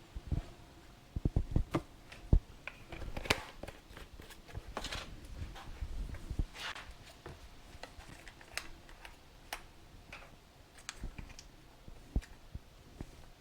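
Workshop handling sounds: a string of irregular knocks and clicks as containers and tools are set down and picked up, loudest in the first couple of seconds, with a few short scrapes and rustles after.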